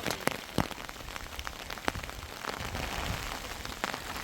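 Heavy rain falling steadily, with loud single drops striking a surface now and then, most strongly in the first second.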